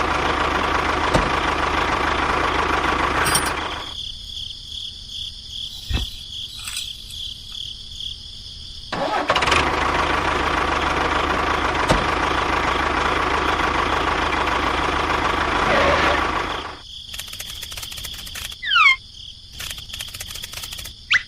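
A tractor-type engine running. It cuts out about four seconds in, starts up again a few seconds later, then dies away near the end.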